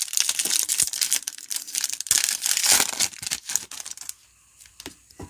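Foil trading-card pack wrapper being torn open and crinkled, a dense crackling rustle for about four seconds that dies down to a few soft ticks near the end.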